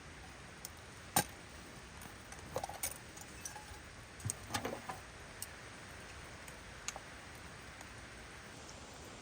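Steady hiss of rain, with scattered sharp clicks and light clinks, one sharp one about a second in and a cluster a little before the middle.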